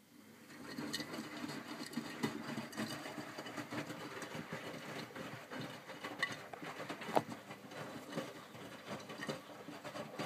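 Miele W562 front-loading washing machine drum turning during the main wash of a minimum iron cycle, the wet load sloshing and dropping with many irregular soft knocks. It starts about half a second in, after a pause, and keeps going steadily.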